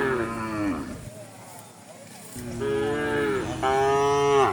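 Domestic cattle mooing: one moo trailing down and fading in the first second, then a longer, louder moo from about two and a half seconds in that breaks off suddenly at the end.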